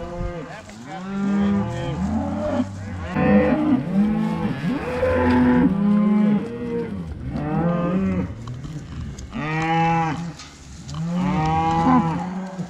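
A herd of Red Angus cattle mooing, many loud calls overlapping one another with hardly a break.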